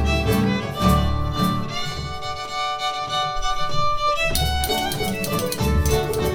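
Live folk ensemble playing a lively fiddle tune, the fiddle leading over strummed rhythm and a pulsing bass. About two seconds in, the bass and rhythm drop away under a long held note, and the full band comes back in near the four-second mark.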